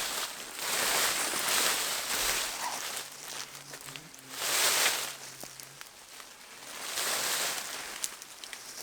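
Undergrowth rustling as it is cleared, in three long swishing swells, with a faint low hum in the middle.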